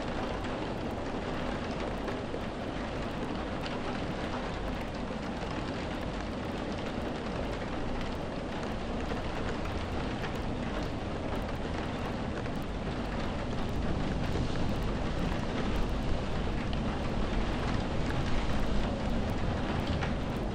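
Steady rain falling, a dense even hiss over a low rumble, growing a little louder in the second half.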